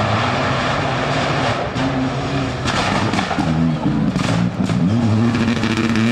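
Rally car engine revving hard, its pitch climbing and dropping several times as the driver changes gear, with a few sharp cracks partway through.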